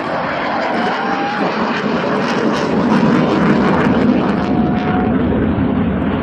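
Military aircraft flying past, its engine noise swelling to a peak through the middle and easing slightly toward the end.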